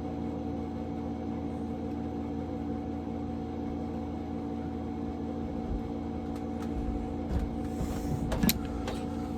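A steady mechanical hum of several even tones, with a few light clicks and knocks near the end.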